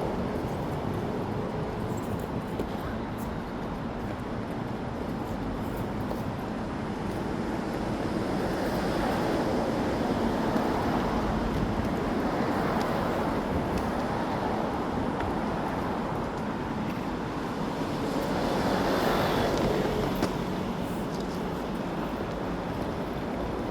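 City street traffic noise: a steady wash of passing vehicles, swelling louder as vehicles go by partway through and again near the end.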